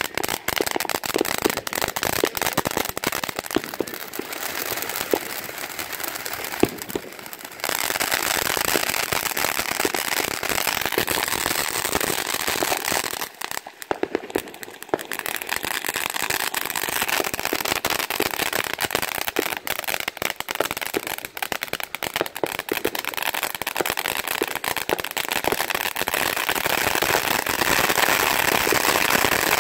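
Ground fountain fireworks spraying sparks, one after another: a steady rushing hiss thick with fast crackling pops. It drops off briefly about seven seconds in, and again around thirteen to fifteen seconds in.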